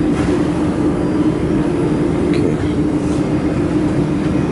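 Dust collection fan of a laser welding machine running steadily, a loud even rush of air with a steady hum.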